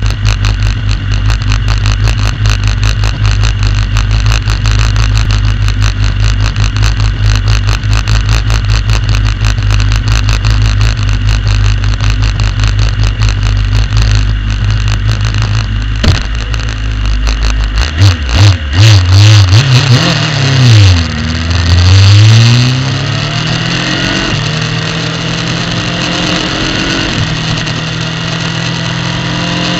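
Superbike engine heard through a camera mounted on the bike: it idles with a steady low rumble and a fast rattle of clicks, then is blipped sharply a few times about eighteen seconds in. The note then dips and climbs as the bike pulls away, and the engine runs on steadily.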